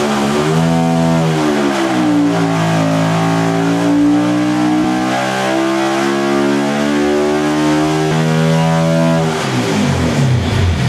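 S&S Cycle Pro Stock Motorcycle V-twin racing engine on an engine dynamometer: revved up sharply, held at high rpm under load for about seven seconds, then dropping back quickly near the end.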